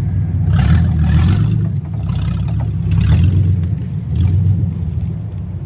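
Engines of a stacked Chevy S10 pickup and ZR2 Blazer running at low revs as the zip-tied rig moves off, the engine note swelling and easing, with several short rushing noises over it.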